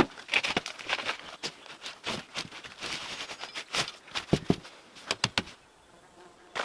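Irregular clicks, knocks and scraping, with a quieter stretch near the end.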